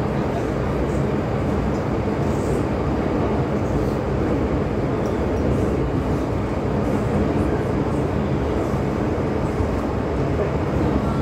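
MTR M-Train electric metro train running at speed through an underground tunnel, a steady, even rumble of wheels and motors with no change in pace.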